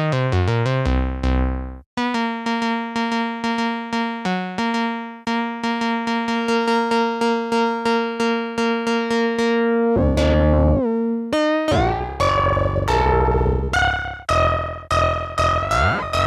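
Dreadbox Artemis synthesizer playing a few quick falling plucked notes, then a fast run of short repeated notes on one pitch. About ten seconds in, the patch turns thicker and buzzier, with deep bass under denser, wavering notes.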